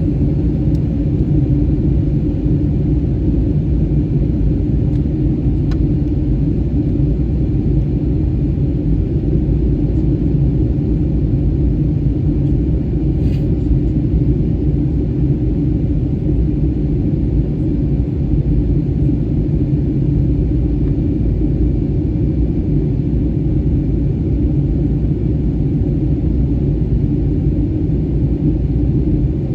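Steady low rumble of an Airbus A320-family airliner heard from inside the cabin during descent: engine and airflow noise, with no changes.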